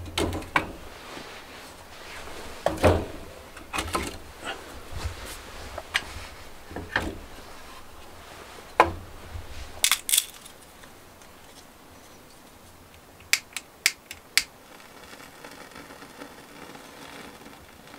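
Scattered knocks and clicks of objects being handled, with three sharp clicks in quick succession about three-quarters of the way through. A low hum runs underneath and fades out about halfway through.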